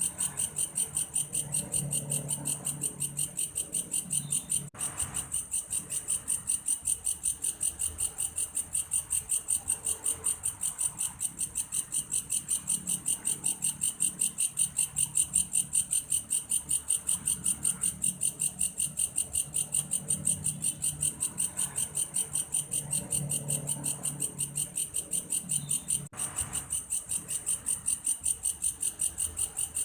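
Belalang kayu (wood grasshopper) singing a continuous, fast, evenly pulsed high-pitched chirring, much like a cricket.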